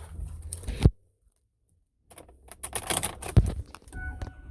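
Keys jangling and several sharp clicks as the ignition key is handled and turned, with a steady electronic dashboard tone coming in near the end.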